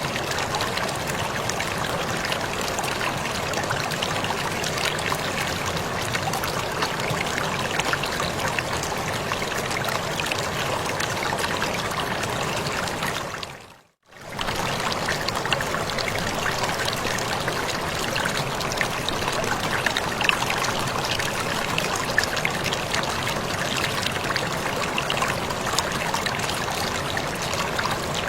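Waterfall splashing and rushing steadily. About halfway through it briefly fades to near silence and comes straight back.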